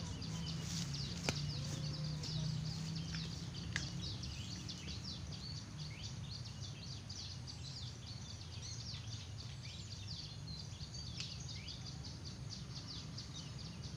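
A flock of small birds chirping in a dense, continuous chatter of short high calls, over a low rumble that fades after the first few seconds. Two sharp clicks, about one and four seconds in.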